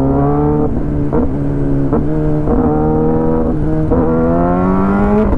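Kawasaki ZX-10R inline-four running through an Arrow full-system exhaust, loud. Its pitch climbs slowly and dips briefly about seven times, roughly every half second to a second, as the throttle is rolled off and back on.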